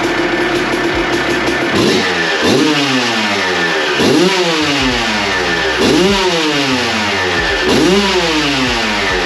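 2003 Suzuki RM250 two-stroke engine, freshly fitted with a new head gasket, idling and then revved in four quick throttle blips about two seconds apart. Each blip rises sharply and falls back to idle.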